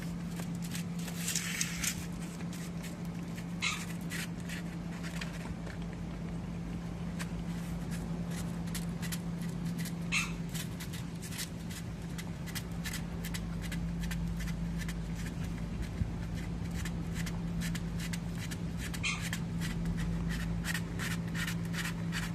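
A dog licking at ice cream: a long run of quick wet clicking licks, a few louder than the rest, over a steady low hum.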